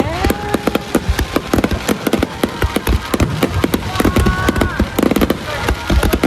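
Fireworks going off in a rapid barrage: a dense, continuous run of bangs and crackles.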